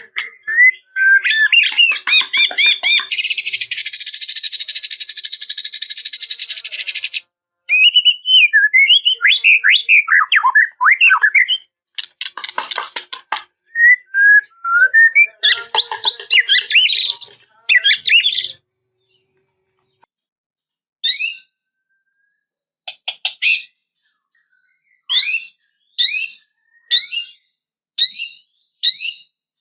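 White-rumped shama (murai batu) singing a long, varied song of rapid trills, buzzy runs and clear whistled phrases. In the last third this changes to short, sharp, falling notes repeated about once a second.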